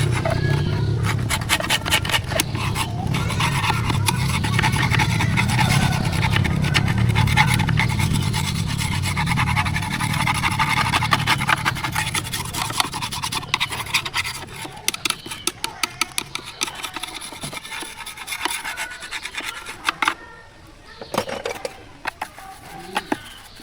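Rapid repeated scraping and rubbing strokes over a low hum, which fades out about halfway through; the scraping goes on more quietly after that.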